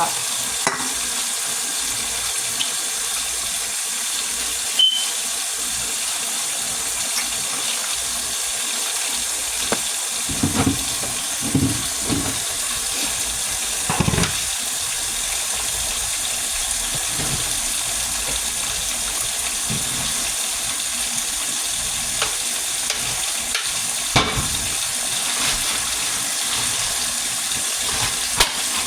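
Kitchen tap running steadily into the sink, with a few scattered knocks and clinks of things being handled.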